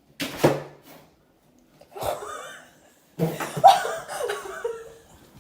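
A person laughing in three bouts, with short pauses between them.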